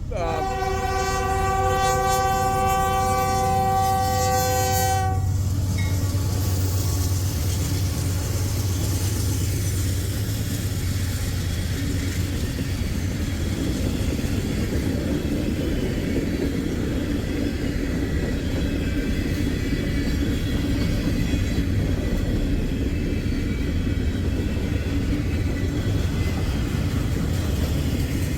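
Train's locomotive air horn sounding one long chord of several tones for about five seconds, then the steady rumble of the train rolling past.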